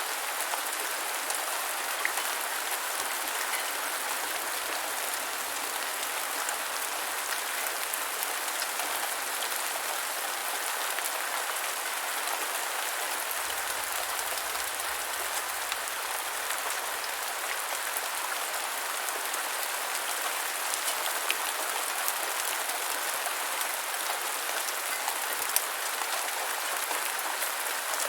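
Steady rain falling on a hard surface: a dense, even hiss of drops with scattered sharper drip ticks.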